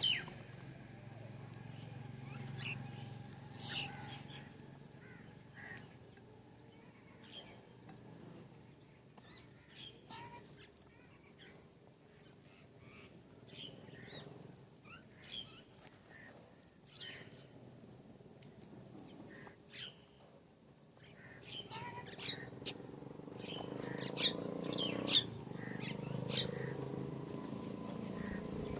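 Wild birds chirping in short, scattered calls, with a low rumble growing louder in the last third.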